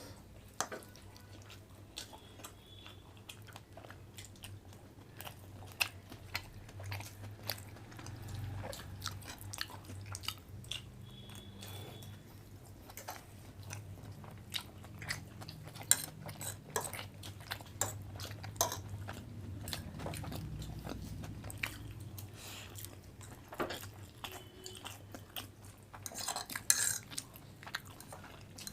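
People chewing and eating from plates, with irregular clinks of cutlery and dishes.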